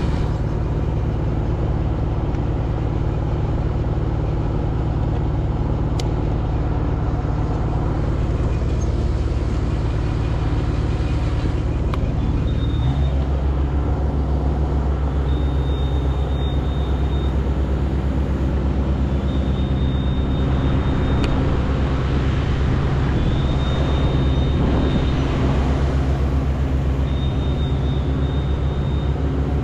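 An engine running steadily, a low drone whose pitch shifts about 13 seconds in, with a faint high tone coming and going every few seconds in the second half.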